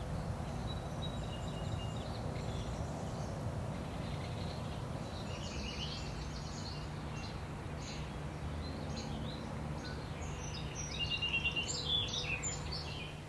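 Wild birds chirping and singing in short scattered phrases, busiest in the last few seconds, over a steady low background rumble.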